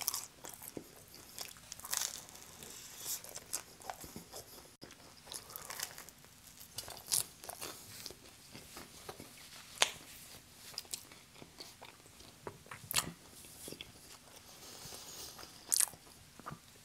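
Chewing and crunching of pizza crust with mouth sounds, broken by several sharp crunchy bites spread through.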